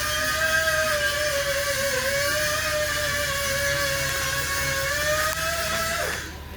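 A steady, high-pitched mechanical whine over a low rumble, wavering slightly in pitch, then dropping away sharply and stopping about six seconds in.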